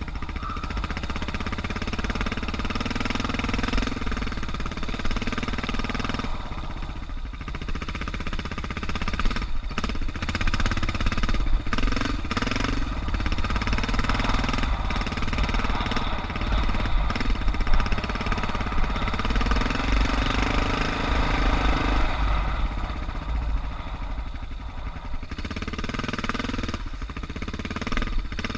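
Suzuki DR650's single-cylinder four-stroke engine running as the bike is ridden, its pitch rising and falling with the throttle every few seconds. A few sharp knocks come through along the way.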